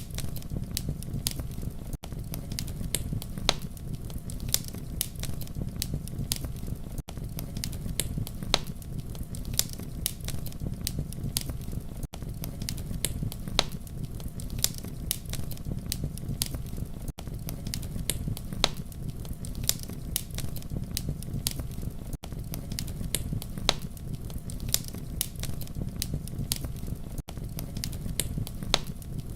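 Campfire burning with a steady low rumble and frequent sharp crackles and pops, with a brief gap about every five seconds.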